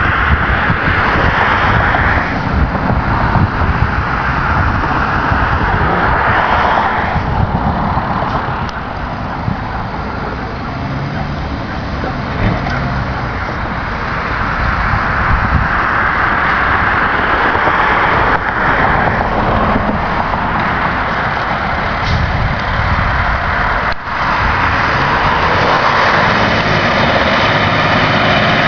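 Seagrave fire engine's diesel engine running under load as the truck moves off, with a heavy rumble and a loud, rushing noise that swells and eases.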